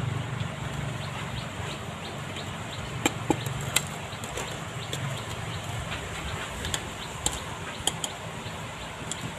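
Small fire crackling with a steady hiss while a red-hot knife tang is worked, with a few sharp clicks and knocks about three seconds in and again near the end.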